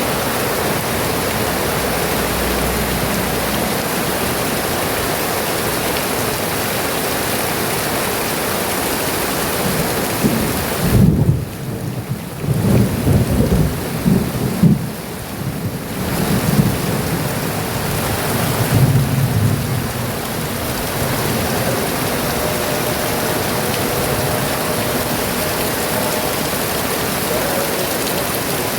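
Heavy rain pouring steadily, with a low rolling rumble of thunder from about ten seconds in that lasts roughly ten seconds and then fades back under the rain.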